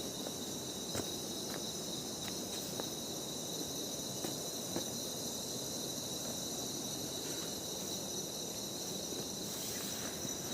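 Steady chorus of forest insects: a constant high shrill made of a few unchanging pitches. Beneath it runs an even low rushing noise, with a few faint ticks.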